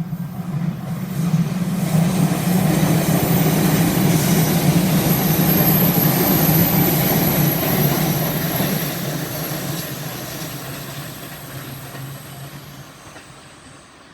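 Electric multiple-unit commuter train passing on the line, its rumble and wheel-on-rail noise swelling over the first two seconds, holding for several seconds, then fading away.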